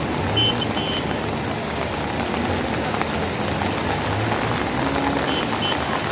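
Steady rain falling, with two brief pairs of short high chirps, one about half a second in and one near the end.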